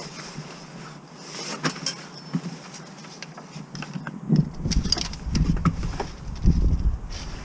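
Scattered light metallic clinks and knocks of tools and parts being handled, with a low rumble starting a little past halfway.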